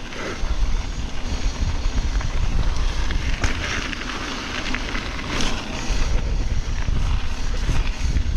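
Mountain bike rolling down a rocky trail: tyre noise and frame rattle under a steady low rumble of wind buffeting the microphone, with a few light knocks from rocks.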